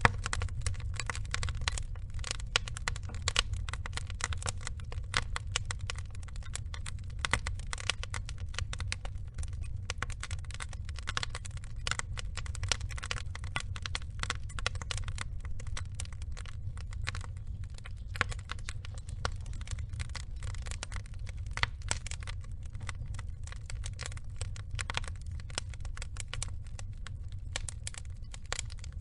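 Wood fire burning, with many irregular snaps and crackles from the logs over a steady low rumble of the flames.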